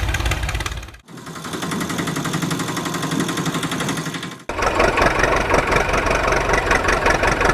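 An engine or motor running with a fast, even pulse. It cuts off abruptly about a second in, starts again, and cuts to a louder take about four and a half seconds in.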